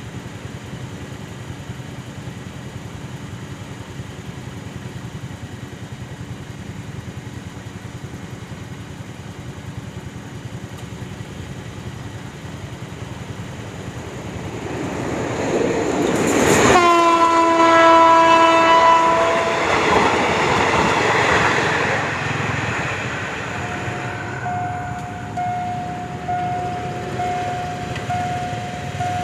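Alsthom diesel locomotive approaching and growing louder. About 17 seconds in it sounds one long horn blast lasting about two and a half seconds, its pitch dropping slightly as it passes. The locomotive and coaches then roll by with wheel clatter, and a steady high tone joins in during the last few seconds.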